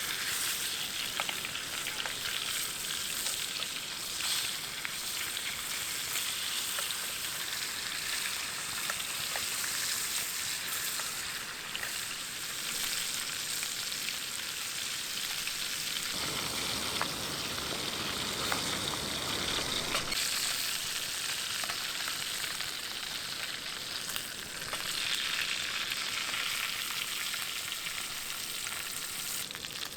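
Food sizzling and frying in an aluminium mess tin over a campfire, a steady crackling hiss. A few seconds past the middle it briefly turns fuller and lower before settling back.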